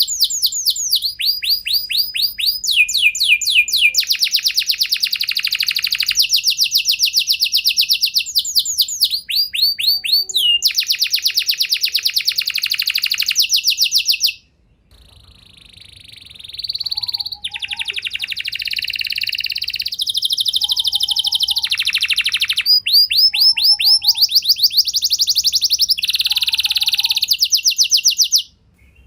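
Domestic canary singing in long rolled tours: fast trills of many notes a second, each tour held for a second or two before jumping to a new pitch. About halfway through the song breaks off briefly, then resumes softer and builds back up, with soft short lower notes repeating a few times under it.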